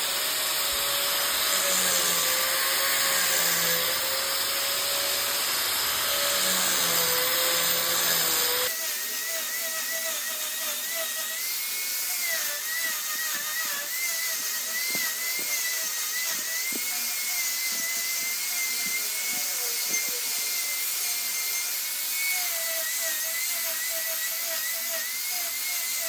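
A high-speed power tool running against wood, its steady whine wavering in pitch as it cuts. About a third of the way in the sound changes abruptly to a different, higher-pitched whine, which carries on to the end.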